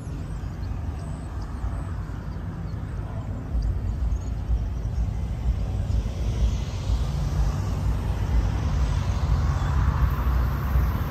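Low rumble of an approaching Brightline passenger train, heard before it comes into view and growing steadily louder.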